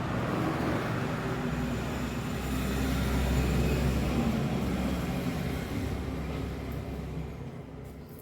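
Single-cylinder scooter engine running, building up and then easing off again before it drops away near the end.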